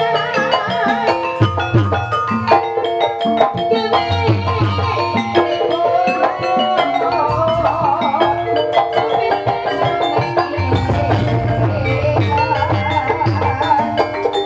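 Live ebeg accompaniment: an ensemble of struck keyed gamelan-type instruments playing a dense, rhythmic melody over a drum pulse, with a wavering melodic line laid over it near the end.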